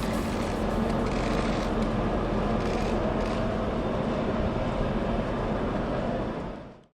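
Steady outdoor street noise with passing traffic, fading out near the end.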